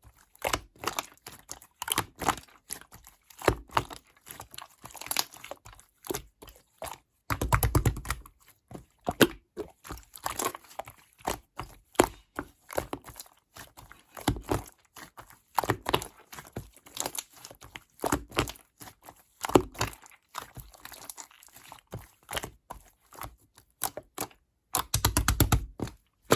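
Slime being kneaded and pressed by hand, giving a steady run of crackling, popping clicks, with two longer, fuller squishing bursts about seven seconds in and near the end.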